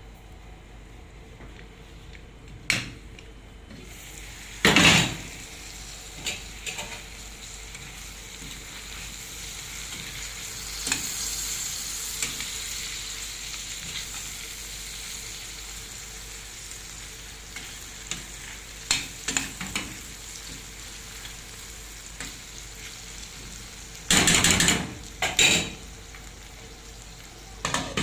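Food sizzling as it fries in a pan, with a utensil stirring and scraping against the pan now and then; the loudest scrapes come about five seconds in and twice near the end.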